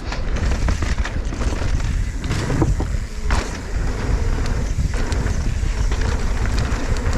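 Mountain bike riding fast down a dirt trail: wind buffeting the rider's camera microphone with a steady low rumble, and the bike's tyres and frame knocking and rattling over rough ground.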